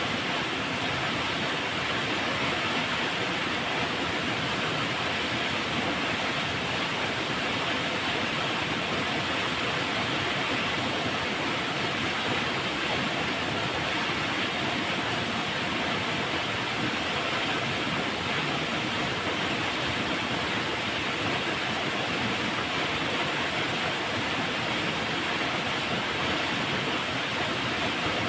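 Flowing river: steady rushing water with no breaks or changes.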